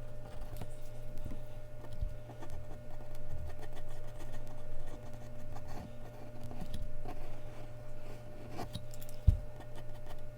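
Mechanical pencil strokes scratching on Bristol paper, over a steady low hum, with a single sharp thump about nine seconds in.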